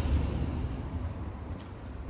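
A car going by on the street, a low rumble with tyre noise that is loudest at the start and slowly dies away as it drives off.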